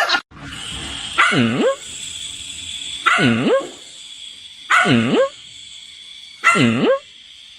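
A dog barking four times, evenly spaced about a second and a half apart; each bark dips and then rises in pitch.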